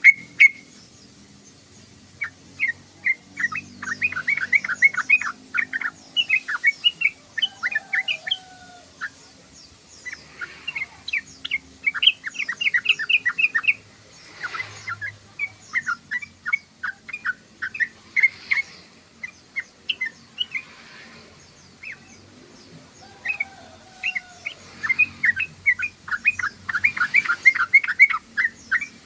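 Yellow-vented bulbul chattering: rapid bouts of short, sharp chirping notes, several a second, broken by brief pauses.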